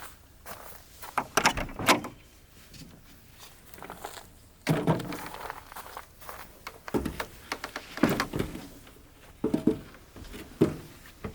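Irregular knocks and thuds in several clusters a few seconds apart, the loudest about two seconds in and near the end.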